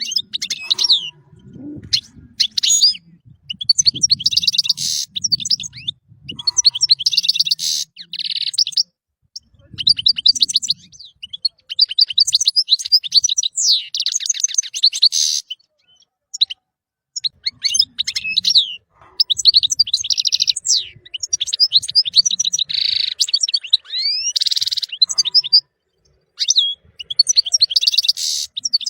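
European goldfinch singing: fast, liquid twittering phrases with rapid trills and buzzy notes, coming in bursts of a few seconds separated by brief pauses.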